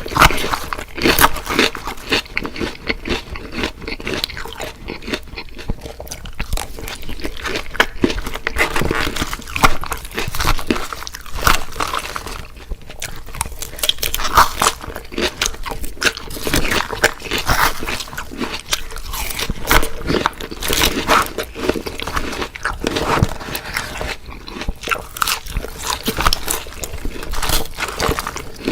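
Close-miked mouth sounds of someone biting into and chewing crunchy fried food, a steady run of crackly crunches and wet chewing.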